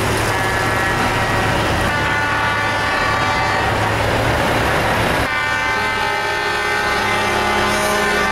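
Truck air horns sounding in long held tones over diesel engine noise. About five seconds in the sound cuts abruptly and the engine noise drops away, leaving cleaner held tones.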